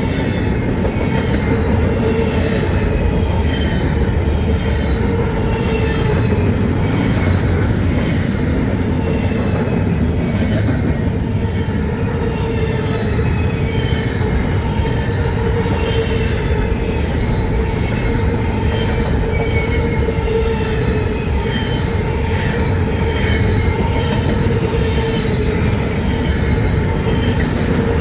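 A train rolling past at a steady pace, a loud continuous rumble of wheels on rail. Over it sit a steady squealing tone and many short, falling squeals from the wheels.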